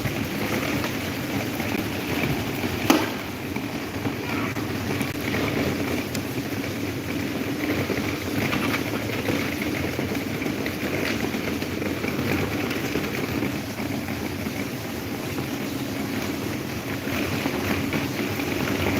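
Electric table fan running with a steady whir, with one sharp click about three seconds in.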